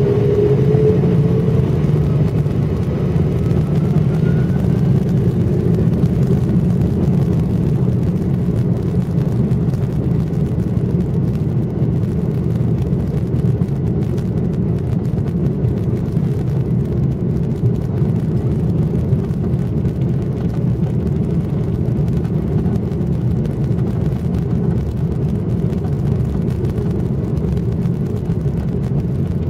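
Jet airliner engines heard from inside the passenger cabin: a rising engine whine over the first couple of seconds, then a steady low rumble.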